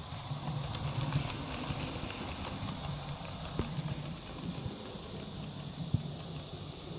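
Model train running on the layout: a steady electric motor hum with the light clicking of wheels over rail joints, a couple of sharper clicks about halfway and near the end.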